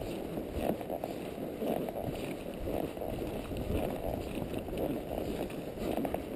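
Palomino Quarter Horse walking on a dirt trail: soft, uneven hoofbeats about one to two a second, with saddle creak and tack movement, heard from a rider's chest-mounted camera.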